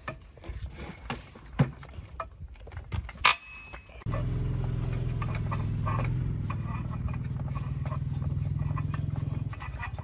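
Scattered clicks and knocks of metal parts being handled, then about four seconds in a motor starts and runs steadily with a low hum, stopping shortly before the end.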